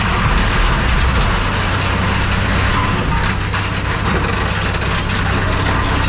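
A heavy machine's engine running steadily at one pitch, with a constant hiss over it.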